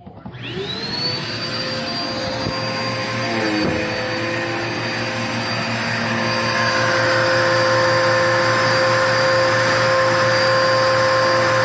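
Dirt Devil Endura Lite bagless upright vacuum cleaner switched on: the motor spins up with a quickly rising whine and settles into a steady high-pitched running hum, getting louder and more hissing about six seconds in.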